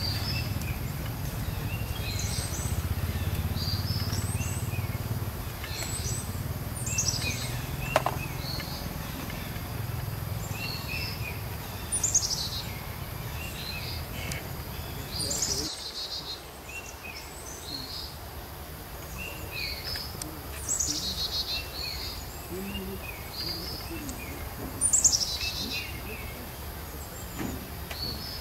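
Small birds chirping repeatedly, short high calls every second or two, over a low rumble that stops suddenly a little past halfway.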